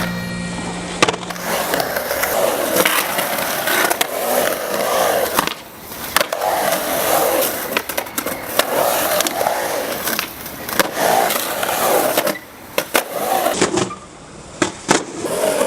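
Skateboard wheels rolling on hard ground with a steady rumble, broken by several sharp clacks of the board, and the rolling drops out briefly a few times.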